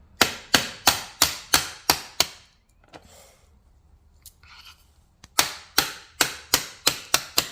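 Hammer blows on a broken Henry vacuum's bucket, knocking a loose part back into place: a quick run of about seven sharp strikes at roughly three a second, a pause of about three seconds, then a second run of about eight strikes.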